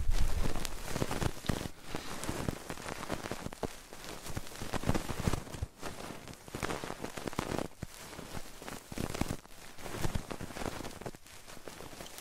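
Close-miked ASMR trigger sounds on an ear microphone: dense crackly scratching with irregular taps and rustles.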